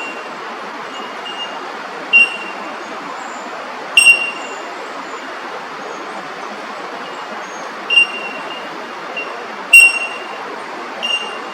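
Small bird giving short, clear, high call notes, repeated every second or two, some much louder than others. A steady hum of distant traffic runs underneath.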